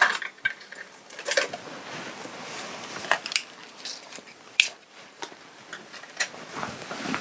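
Small gold accent pieces being handled and sorted: scattered light clicks and taps over soft rustling. The sharpest clicks come at about a second, three seconds and four and a half seconds in.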